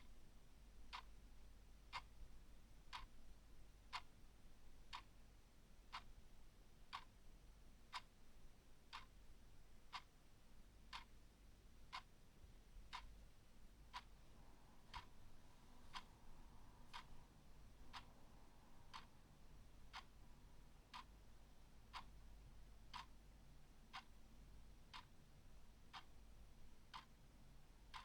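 Clock ticking steadily, one faint tick each second.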